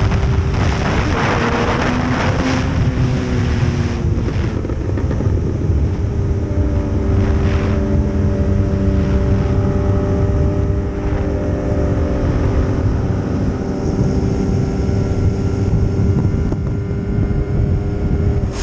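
Motorcycle engine running at a steady cruising speed, its pitch holding with small shifts, with wind rushing over the microphone.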